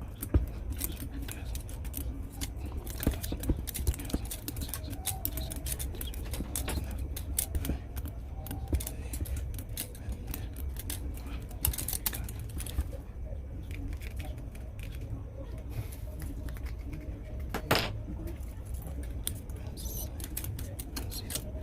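Irregular small clicks and taps of hand tools and parts being handled during blender motor repair, with a stronger click near the end, over a steady low hum.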